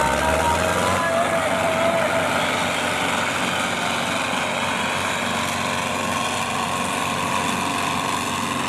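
Tractor diesel engines running hard and steadily under load as the tractors pull against each other in a tug-of-war.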